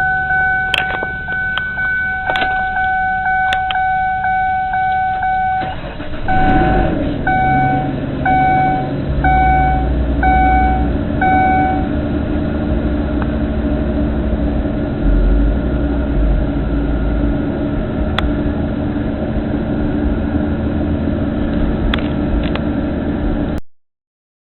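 Ford Explorer cold start: the dashboard warning chime rings repeatedly, then about six seconds in the engine fires, flares up briefly and settles into a steady fast cold idle. A few more evenly spaced chime beeps sound over the idle in the first seconds after start.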